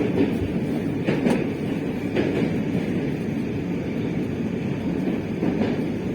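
Moscow metro train running through a tunnel, heard from inside the car: a steady rumble of wheels on rails with a few wheel knocks over rail joints.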